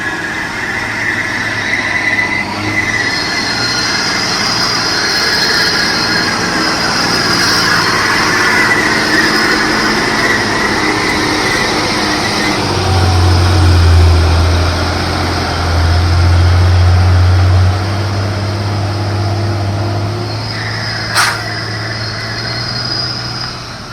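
Heavily loaded diesel truck labouring uphill, its engine droning low and loudest in the second half, with steady high-pitched squealing and whining over it. A single sharp click comes near the end.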